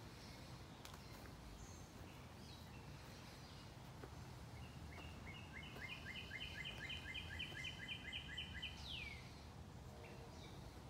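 A songbird singing a rapid run of short, evenly repeated high notes for about four seconds, starting about five seconds in, then one quick downward-sliding note. Faint low background noise runs underneath.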